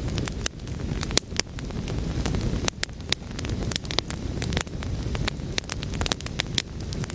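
Wood fire burning with a low roar and frequent irregular pops and crackles, a few of them sharper and louder.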